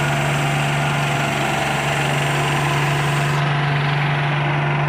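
Tractor diesel engine idling steadily at an even, unchanging speed.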